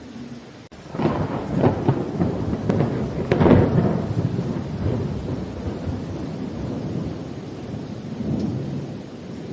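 Thunder rumbling over steady rain. A crack comes about a second in and a louder peak about three and a half seconds in, then the rumble dies away, with a smaller swell near the end.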